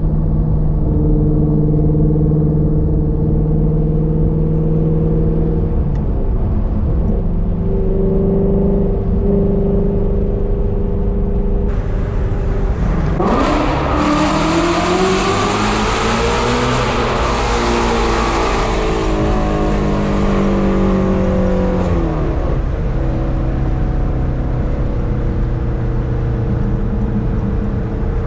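2017 Shelby GT350's 5.2-litre flat-plane-crank V8, through Kooks long-tube headers and a competition exhaust, cruising steadily. About halfway through it is revved hard under acceleration, pitch climbing, holds briefly, then eases off and settles back to a steady cruise.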